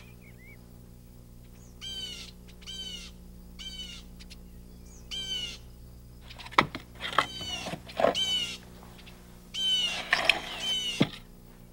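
A bird calling repeatedly, each call a quick run of falling notes, in two groups. A few sharp knocks come in the second half, over a steady low hum.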